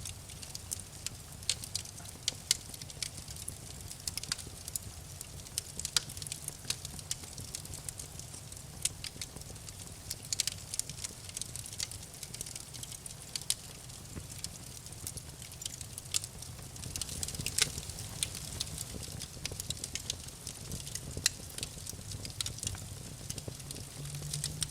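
Wood fire crackling in a fireplace: frequent sharp, irregular pops and snaps over a steady low rumble and soft hiss of the burning logs.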